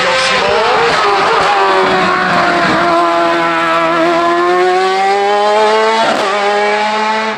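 Racing car engine running hard under load on a hillclimb. Its pitch dips just after the start, climbs slowly through the middle, and breaks briefly about six seconds in.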